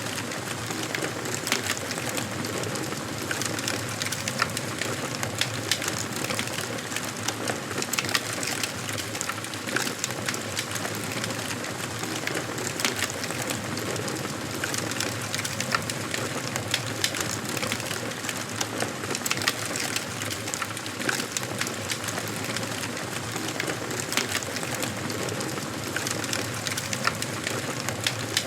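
Wood fire crackling in a fireplace: a steady hiss with frequent sharp pops and snaps scattered throughout.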